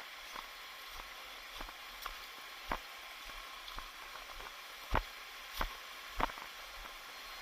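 A hiker's footsteps: a few sharp steps, three of them about two-thirds of a second apart in the second half, over a steady hiss.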